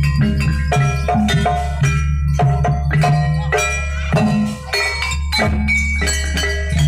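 Gamelan-style jaranan accompaniment: struck metallophone notes in a quick, even run over a steady low bass.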